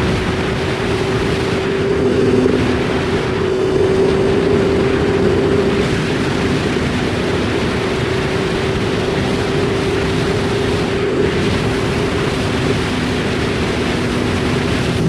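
BMW S1000RR inline-four motorcycle engine running at a fairly steady pitch under way, heard through heavy wind noise on the camera.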